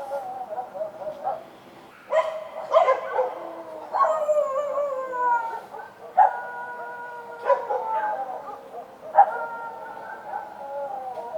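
Street dogs barking and howling: a few sharp barks, each followed by a long drawn-out howl, one of them sliding down in pitch about four seconds in.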